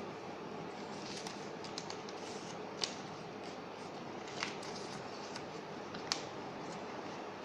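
Paper being handled and creased by hand: a few scattered crisp crinkles and ticks, the clearest about three, four and a half and six seconds in, over a steady background hiss.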